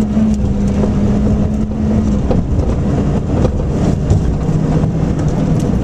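Nissan Micra rally car's engine heard from inside the cabin, running hard at steady revs over road and tyre noise; about two seconds in the engine note drops and holds lower.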